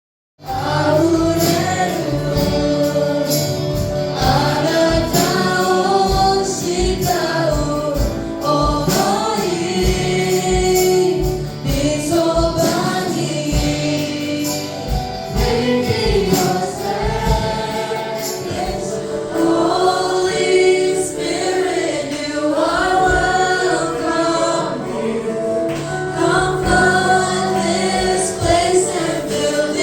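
Gospel praise music: a group of voices singing together over a band with a steady drum beat, starting about half a second in.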